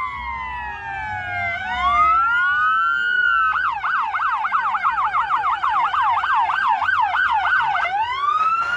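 Fire truck sirens sounding together: slow wails that fall and rise, then about four seconds of fast yelp at roughly four sweeps a second, then back to a rising wail.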